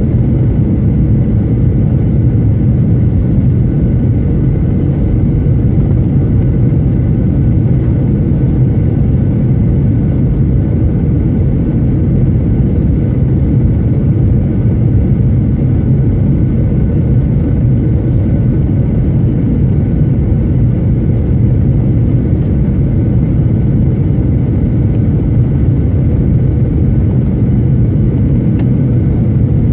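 Steady cabin rumble of a Boeing 737-900 airliner heard from a window seat: the CFM56-7B turbofan engines and airflow making a loud, even low drone with a faint steady whine above it.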